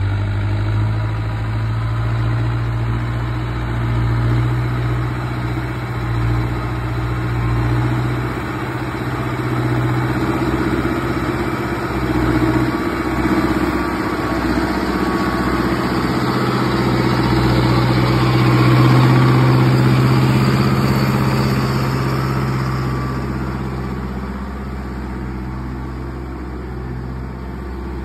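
A vehicle's engine running steadily, its low hum slowly swelling and easing, loudest a little past the middle.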